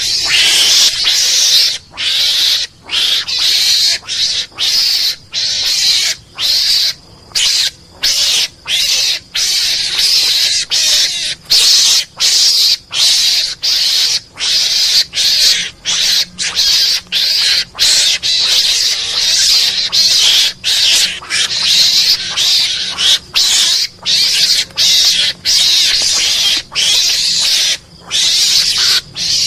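Recorded mongoose (garangan) lure call playing: harsh, hissing calls repeated over and over, each broken by a short gap, more than once a second.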